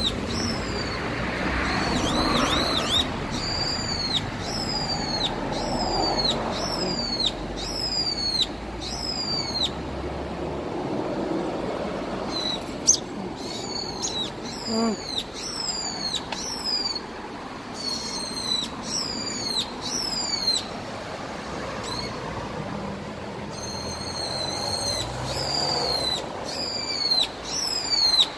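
Adult bird calling in alarm over its grounded chick: a long series of high, sharply falling calls, about one and a half a second, with two short breaks. Steady street noise lies underneath.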